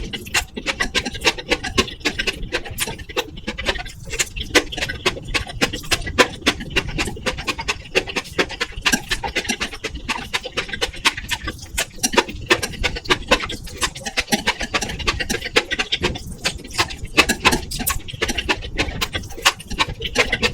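Close-miked eating sounds: a dense, irregular run of wet mouth clicks and chewing. Under them runs a steady low hiss and crackle from a faulty microphone.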